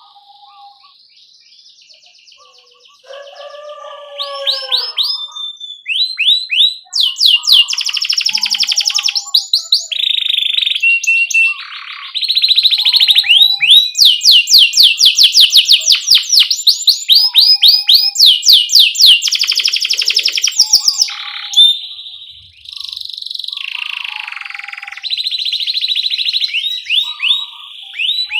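Domestic canary singing a long song of 'cuit cuit' chirps and rolling trills: very fast repeated sharp notes alternating with steady held whistles, with a few lower gliding notes near the start. The song is faint for the first few seconds.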